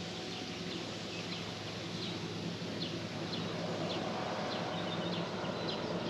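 A small bird calling in a string of short, falling chirps, a few a second, over an even outdoor hiss and a steady low hum.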